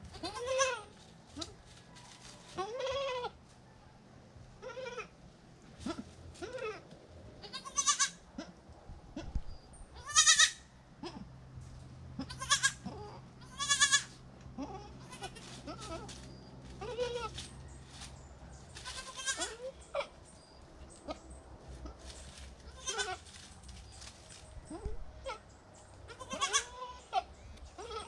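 Goats bleating, a doe and her newborn kids: about a dozen short calls every second or two, some lower and some higher, the loudest in the middle.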